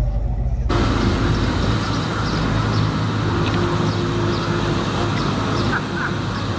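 Car engine idling steadily with a low hum. Less than a second in, the sound changes abruptly to a noisier engine drone.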